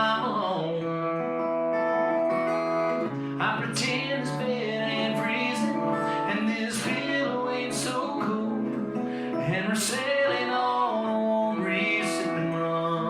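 Acoustic guitar strummed in a live country song with an island feel, with sung vocals holding and bending notes over it.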